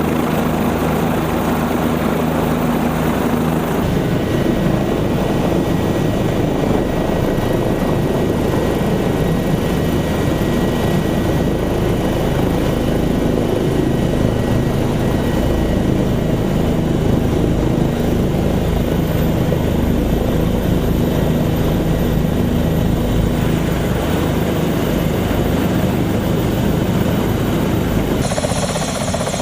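OH-58D Kiowa Warrior helicopter running steadily, its rotor and turbine heard close up. The sound changes abruptly a few seconds in and again near the end, as between edited shots.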